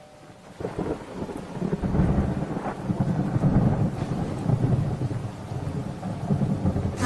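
Low rolling thunder over a steady hiss of rain, swelling in about half a second in.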